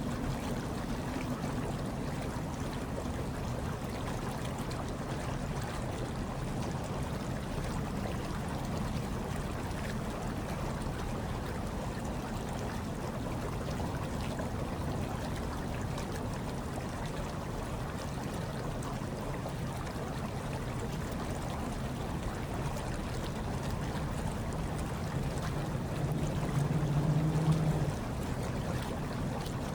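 Hot tub water churning and bubbling steadily, with a low hum underneath that swells briefly near the end.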